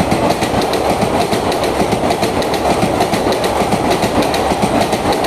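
Passenger train passing at speed close by, its wheels clattering over the rail joints in a rapid, steady rhythm.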